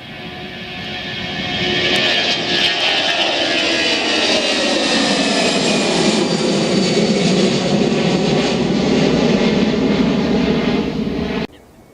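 Jet airliner's engines at takeoff power as it passes close by. The noise swells over the first two seconds, then holds loud with whining tones that fall in pitch as it goes past, and it cuts off suddenly near the end.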